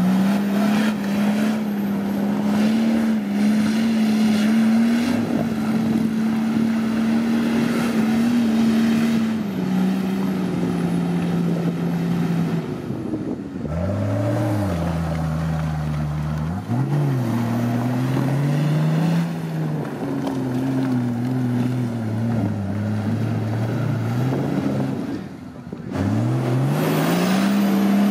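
An off-road 4x4's engine working hard at high revs. The revs drop sharply about halfway through, hunt up and down at a lower pitch, then climb again near the end.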